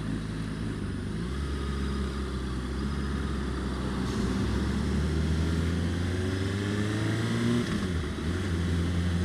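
Honda CBR600RR's inline-four engine running at low revs, its pitch stepping up a few times as it pulls along.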